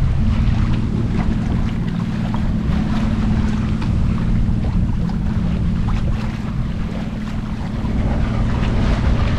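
Wind buffeting the microphone and water rushing and splashing along the hull of a sailboat under way, with a steady low hum underneath.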